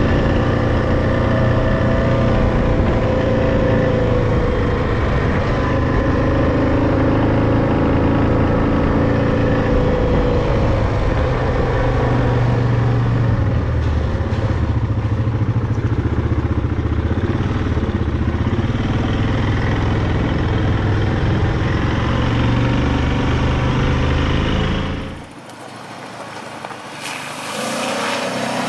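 Yamaha Grizzly 700 ATV's single-cylinder engine running under way, its pitch rising and falling with the throttle. It cuts out suddenly about 25 seconds in, and a fainter engine or wind sound rises near the end.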